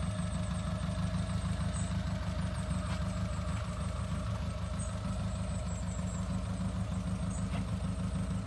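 1974 Lotus Elan Sprint's Lotus Twin Cam four-cylinder engine idling steadily.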